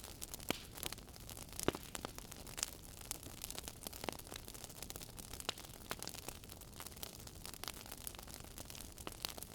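Wood fire crackling in a fireplace: a soft hiss of burning with frequent irregular pops and snaps.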